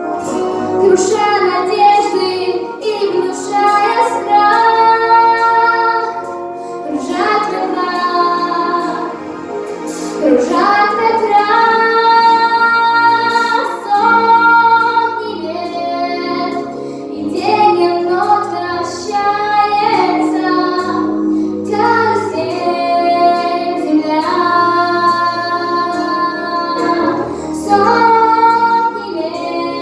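A child's voice singing a slow song with long held notes over a steady musical accompaniment.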